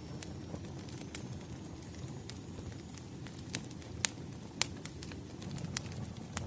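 Wood fire crackling: irregular sharp pops and snaps over a low, steady rumble of flames.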